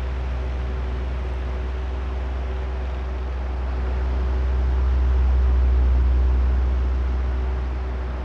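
Oscillating electric fan running steadily: a low motor hum with a faint whine over the airy rush of the blades, swelling and fading slowly as the head turns toward and away.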